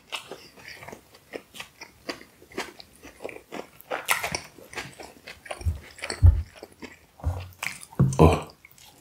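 Close-up chewing of a mouthful of lamb kebab wrap: many short, irregular wet clicks of the mouth working the food, with a few louder low thumps in the second half.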